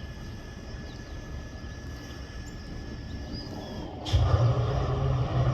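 EMD SD40-2 diesel-electric locomotive's 16-cylinder two-stroke EMD 645 diesel starting up. A low steady hum runs for about four seconds, then a click, and the engine comes in with a much louder, deep, rumbling run.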